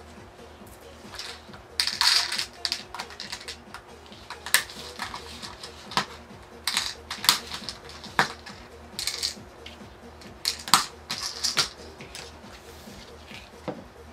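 Irregular clicks, taps and short scrapes of small parts and hand tools being handled while a sumo robot is taken apart.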